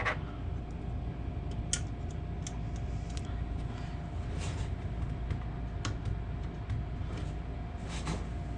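Scattered small metallic clicks and taps of an Allen wrench working the screws on a 3D printer's limit switch bracket, over a steady low hum with a faint steady tone.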